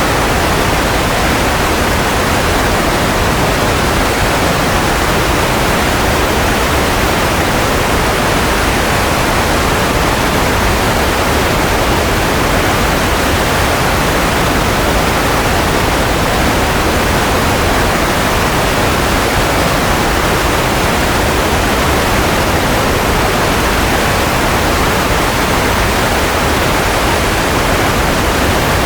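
Continuous white noise sleep sound: a steady, even hiss with no tones and no change in level, fuller in the middle range and softer in the highs.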